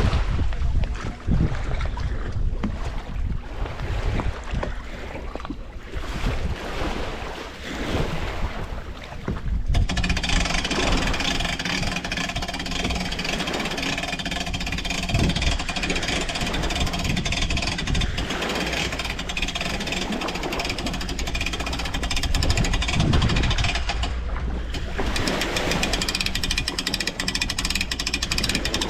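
Wind buffeting the microphone, then about ten seconds in a motor starts and runs steadily.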